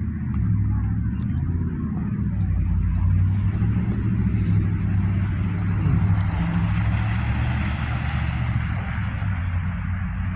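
A car engine running steadily, with a hiss that swells up in the second half and fades near the end.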